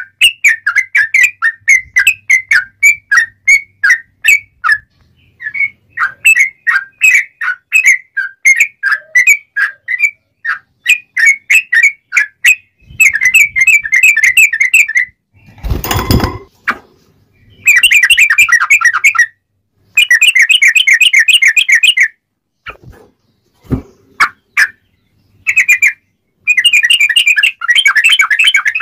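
Sooty-headed bulbul singing loudly: a string of short sharp chirps, then rapid chattering runs of notes broken by short pauses. About halfway through, a brief loud burst of noise cuts across the song.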